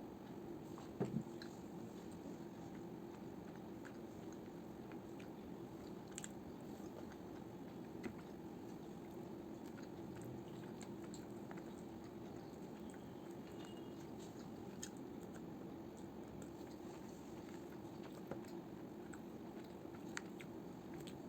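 A person chewing and biting food, with scattered soft clicks and smacks, the loudest a pair about a second in, over a steady low hum.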